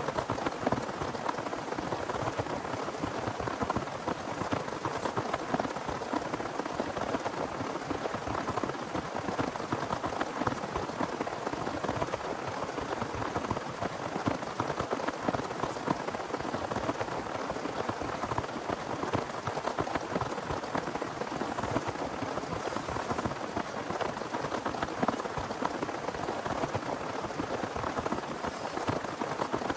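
Heavy rain falling steadily, a dense patter of countless drops striking a surface, with no let-up.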